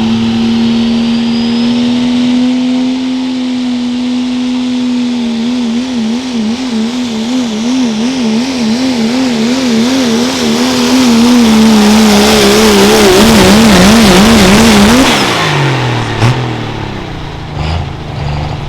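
1996 Dodge 2500 diesel pulling truck running at full throttle down the track under sled load. About five seconds in its engine note begins wavering rapidly up and down, and it grows louder with a rising hiss. Around fifteen seconds in the pitch falls away as the throttle comes off at the end of the pull, followed by a single sharp knock.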